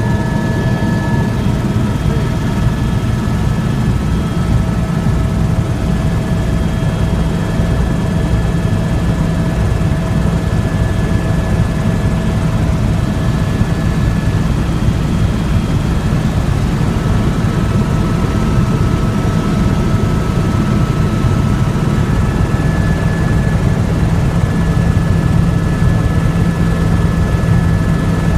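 Helicopter running steadily: a loud, dense low rotor and engine noise, with a few faint steady whine tones above it.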